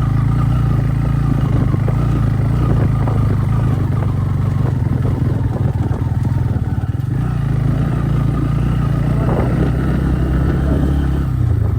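Motorcycle engine running steadily as the bike rides a rough dirt track, with a continuous rattle over the uneven surface.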